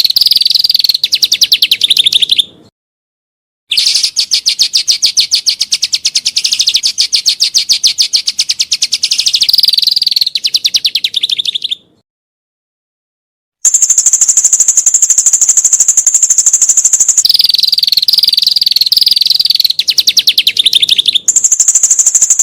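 Songbird song on a looped training recording: loud, fast rattling trills alternating with a held high-pitched note. The phrases are cut off abruptly twice into complete silence.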